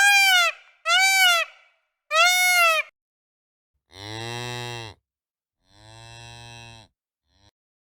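Three loud, short, high-pitched animal calls that rise and fall in pitch, then a cow mooing twice in long, low moos, the second quieter.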